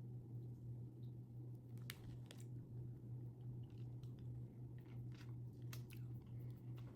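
A person chewing a soft vegan gummy candy: scattered faint, wet mouth clicks over a steady low hum.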